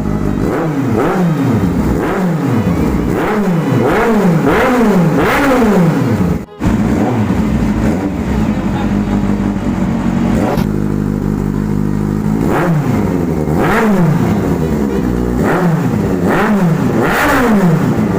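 Motorcycle engine revved over and over in quick blips, each rise in pitch falling straight back, with a steadier stretch at idle in the middle and a sudden brief break about six and a half seconds in.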